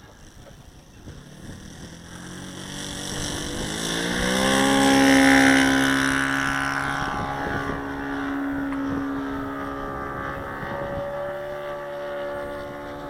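Saito 180 four-stroke glow engine of an RC model Percival Mew Gull, turning an 18x6 propeller, in flight. It swells and rises in pitch over the first few seconds, is loudest about five seconds in, then runs on steadily a little quieter, with small pitch changes near the end.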